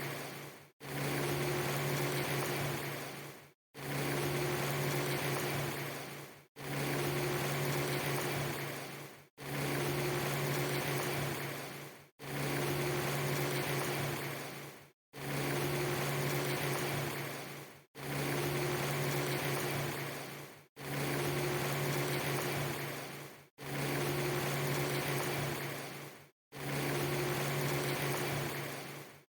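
Steady rushing noise under a low hum, played as a loop of a segment just under three seconds long. Each repeat fades and cuts to silence for an instant before the next begins, about ten times over.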